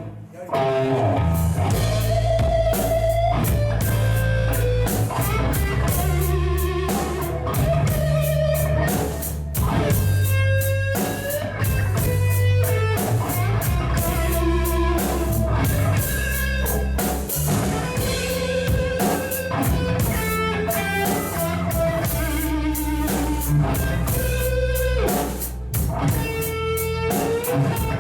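Rock band playing a song live: electric guitar over bass and a drum kit, kicking in about half a second in and running steadily.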